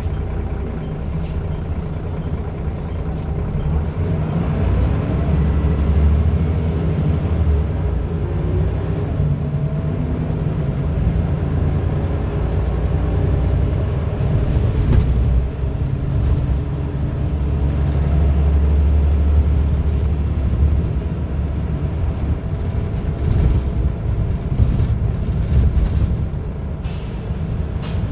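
Scania L94UB bus's diesel engine running under way, its note swelling twice as it pulls and then easing off, driving through a ZF automatic gearbox. A short hiss of air, typical of the air brakes, comes about a second before the end.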